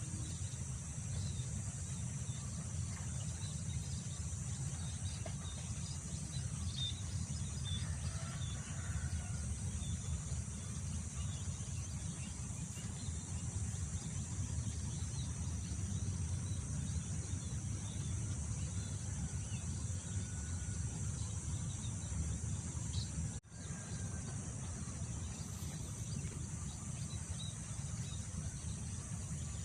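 Wind buffeting the microphone as a steady low rumble, over a constant high drone of insects and scattered faint bird chirps. The sound cuts out for an instant about three-quarters of the way through.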